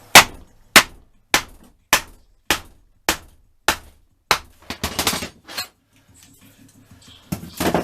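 Hammer blows through a wooden block onto the seized cylinder barrel of a Yamaha FZR1000 engine: a steady run of about eight hard, ringing strikes a little under two a second, then a few lighter knocks and one more hit near the end. The barrel is being driven off the rust-seized pistons.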